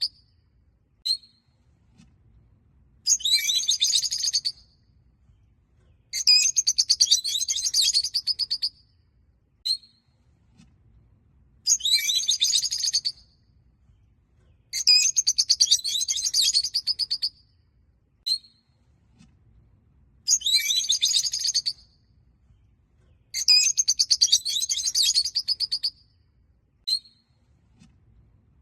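Small flock of peach-faced lovebirds chirping: bursts of rapid, high-pitched chirps a second or two long every few seconds, with single short chirps in between.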